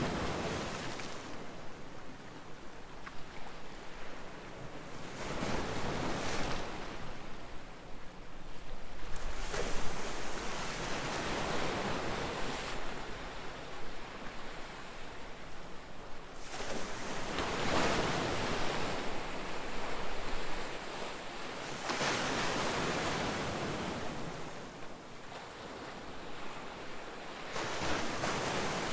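Ocean surf: waves breaking and washing in, a rushing noise that swells and falls back every few seconds, loudest about ten seconds in.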